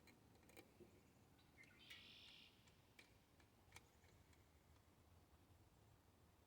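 Near silence, with a few faint clicks and one brief faint chirp about two seconds in.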